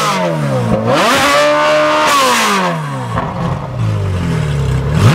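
Supercar engine being revved while standing still. A falling rev runs into a sharp blip about a second in, held briefly before the engine falls back to idle, and a second sharp rev comes right at the end.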